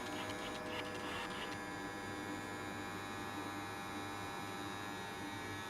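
Steady electrical hum made of many fixed tones, with a few faint clicks in the first second and a half.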